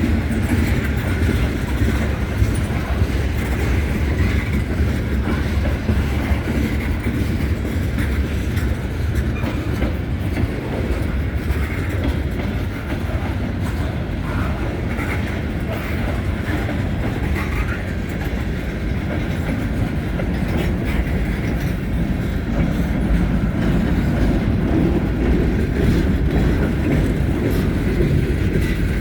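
Freight cars of a passing train rolling by at close range: a steady rumble with the clatter of wheels on the rails.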